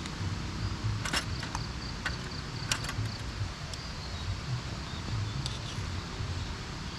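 A few sharp clinks and knocks of a utensil against a camping nesting pot, over a steady low rumble.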